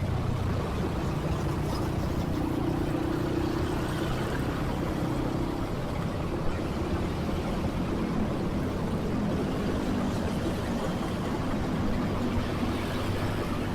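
Motorcycle engine running steadily under way, mixed with road and surrounding traffic noise; its hum steps down a little in pitch about halfway through.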